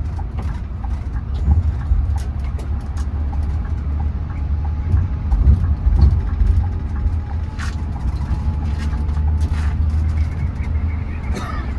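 Scania bus under way: a steady low engine hum with road rumble and scattered short rattles and clicks.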